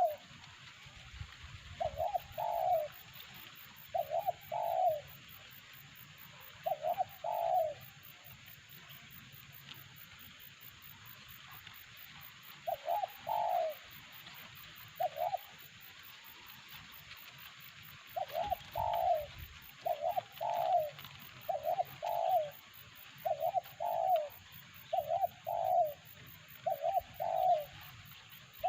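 Spotted dove cooing: short phrases of two or three low coos repeated every second or two, with a pause of several seconds near the middle and steadier calling in the second half. This is the dove call that lure-trapping for terkukur relies on.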